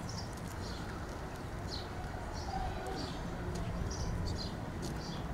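Birds chirping in short, high calls about once a second over a steady low rumble, with a faint murmur of voices at quiet prayer.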